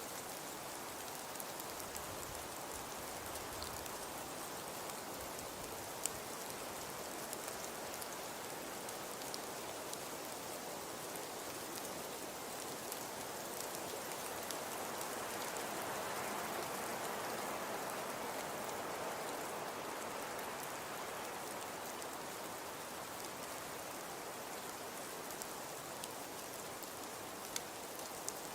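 Wood fire crackling in a fireplace: a steady soft hiss with scattered sharp pops, swelling slightly around the middle.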